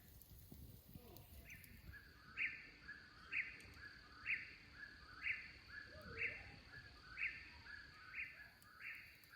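A bird repeating a short two-part call about once a second, with a steady high-pitched hum behind it.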